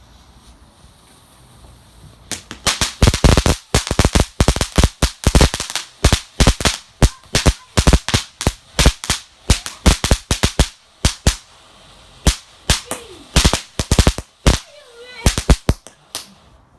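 Fireworks going off in a long, rapid run of sharp bangs, several a second, starting about two seconds in and stopping shortly before the end.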